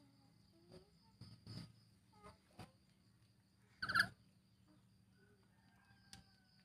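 Nuri parrots (lories) making small clicking and scratching sounds, with one short squawk about four seconds in and faint thin whistled notes near the end.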